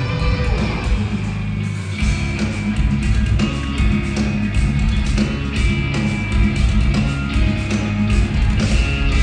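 Live instrumental progressive metal played loud by a band of eight-string electric guitars and drums. The playing runs dense and rhythmic, with a short drop in the low end just before two seconds in.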